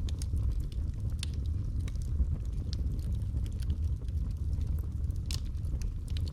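Wood fire burning in a fireplace: a steady low rumble of flames with scattered, irregular sharp crackles and pops.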